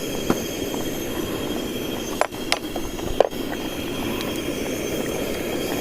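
Steady rushing of a stove burner under a pot of simmering curry, with a few light clicks and knocks from the cooking utensils.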